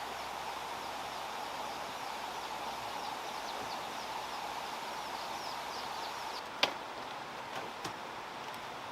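Steady outdoor background hiss with a quick run of short, high, falling chirps, then a single sharp knock about two-thirds of the way through and two lighter knocks soon after.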